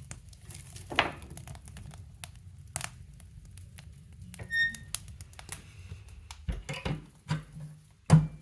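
Scattered clicks and knocks of woodstove and firewood handling, with a short metallic ring about halfway through and a few heavy thuds near the end, the last one the loudest.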